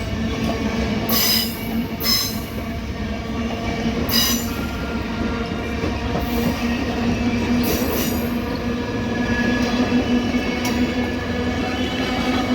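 Norfolk Southern office special passenger train rolling past with a steady rumble, its wheels squealing in short high bursts several times.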